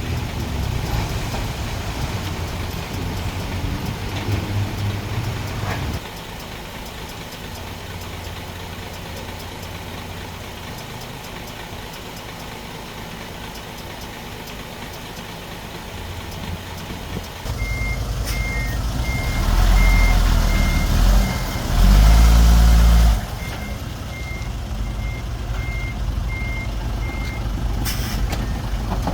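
Heavy diesel engines of a Komatsu D31P bulldozer and dump trucks running steadily, quieter for a while, then louder from past the middle. A reversing alarm beeps about once a second for some ten seconds, and an engine revs hard twice in that stretch.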